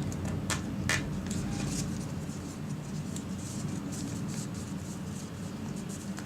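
Square origami paper being folded and creased by hand: scattered light crinkles and rustles, with a sharper crackle about a second in, over a low steady hum.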